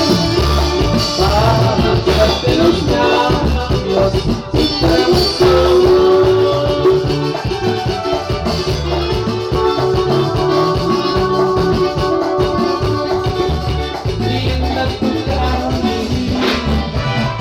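Latin band music with a shaker rattle over a steady, pulsing bass beat.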